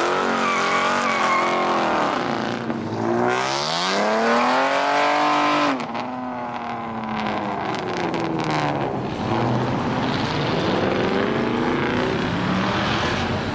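Cars accelerating hard away. One engine revs up in a long rising sweep, then cuts off abruptly about six seconds in, and further engine noise from departing cars follows.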